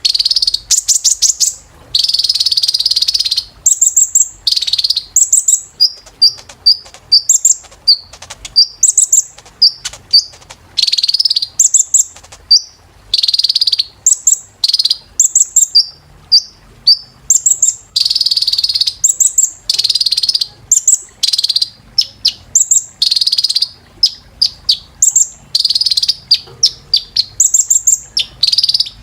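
Kolibri ninja sunbird singing a fast, high-pitched song: short sharp chirps alternating with dense trilled bursts, repeating with barely a pause.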